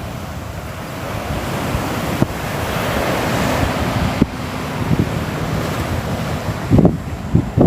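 Sea waves washing on the shore, the surf swelling and easing off, with low thumps of wind buffeting the microphone, several of them close together near the end.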